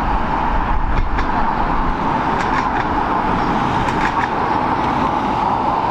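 Jet airliner engines running steadily, a continuous rushing noise with a low rumble and a steady tone near the middle of the range.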